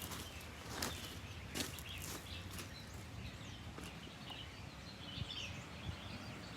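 Outdoor ambience with birds chirping faintly, and a few short rustles or knocks in the first couple of seconds.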